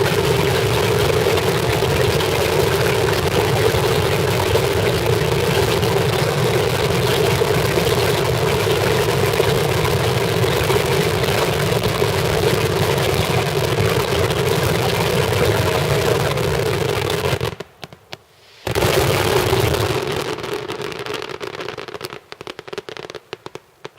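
Daytime fireworks barrage: bangs fire so densely that they merge into one continuous loud roar. About seventeen seconds in it stops abruptly for a second, then one more burst follows and it thins out into scattered crackles.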